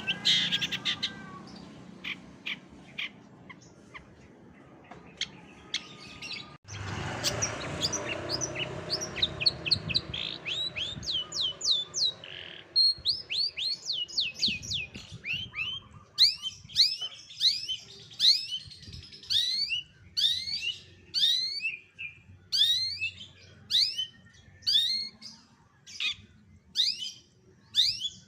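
Long-tailed shrike (cendet) singing: sharp, high-pitched chirps that sweep steeply in pitch, sparse at first, then a fast, loud run of repeated notes from about halfway on. There is a brief noisy break about 7 s in.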